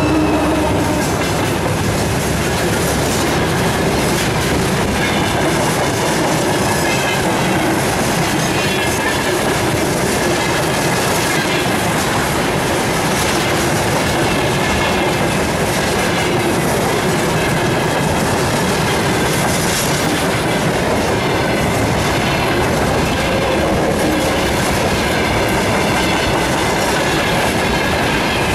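Freight wagons (tank cars, hoppers and gondolas) rolling past at close range: steel wheels clattering over the rail joints in a steady, unbroken rumble.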